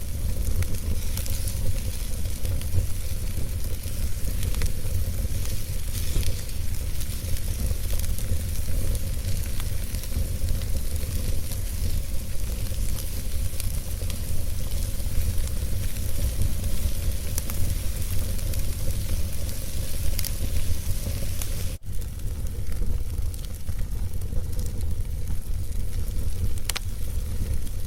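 Wood fire burning in a fireplace, with a steady low rumble under scattered sharp crackles and pops. The sound drops out for a split second about two-thirds of the way in.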